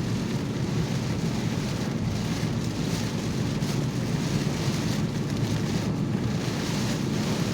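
Steady noise inside a moving vehicle driving through rain: tyres running on the wet road with rain hitting the body and glass.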